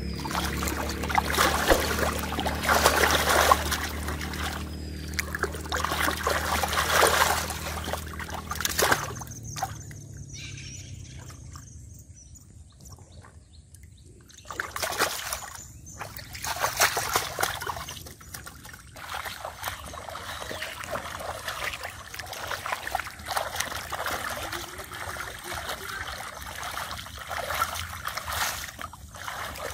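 Muddy water splashing and sloshing in irregular bursts as hands grope through it for catfish, with a quieter lull partway through. A low steady hum runs under the first nine seconds or so, then stops.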